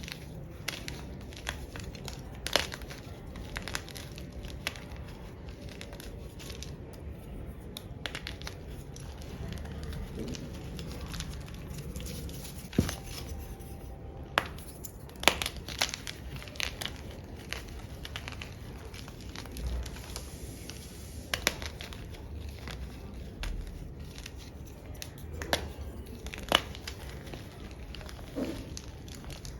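Chunks of gym chalk being crushed: crumbly crunching with irregular sharp cracks.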